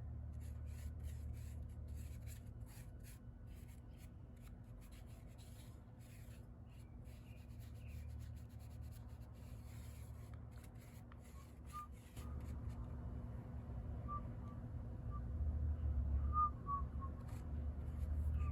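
Quick, irregular scratching strokes over a steady low hum, thinning out about ten seconds in, with a few faint short high tones near the end.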